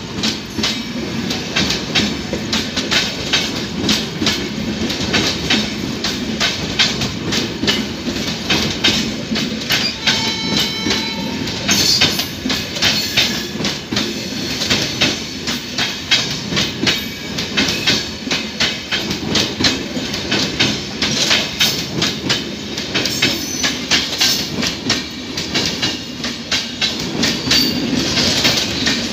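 Passenger coaches of a departing express train rolling past close by, their wheels clicking in a fast, continuous clickety-clack over the rail joints above a steady rumble.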